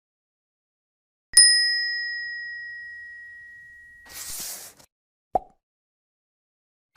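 A single bell-like ding that rings and fades away over about three seconds. A short hissing whoosh comes about four seconds in, followed by a brief pop.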